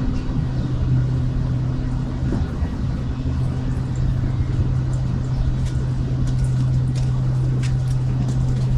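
A vehicle engine idling close by: a steady low hum over a low rumble, with a few light ticks in the last few seconds.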